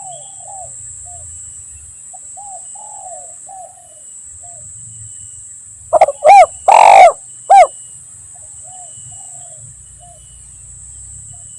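Spotted doves (tekukur) cooing: soft repeated arched coos throughout. About six seconds in comes a loud close call of a few short arched notes around one longer rolling coo, lasting under two seconds.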